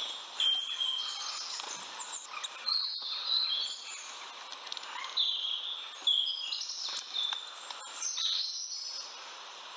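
Small birds chirping in the open air: short high notes, some sliding in pitch, come every second or so over a faint steady hiss of outdoor background noise.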